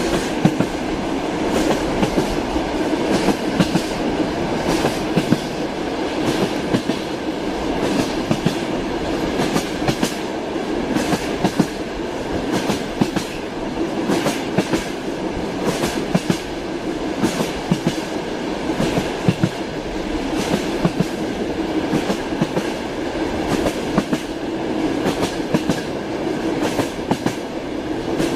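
Train wheels rolling on rails with a steady rumble and frequent clicks of the wheels over rail joints (the clickety-clack of a moving train).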